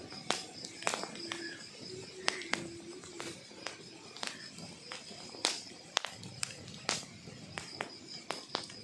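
Wood fire crackling: irregular sharp snaps and pops of burning logs over a low hiss, with a few brief faint whistles in the first three seconds.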